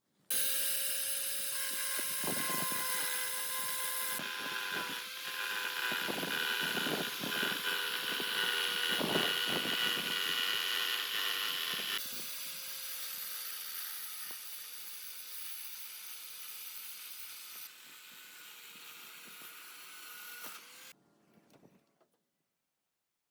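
An electric power tool running with a steady whine over a high hiss, starting suddenly and cutting off about 21 seconds in. A series of knocks sounds through its first half, and its level drops in steps during the second half.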